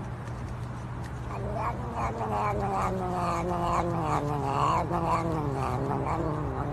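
Domestic cat yowling: one long, pulsing call that starts about a second in and slowly falls in pitch, over a steady low hum.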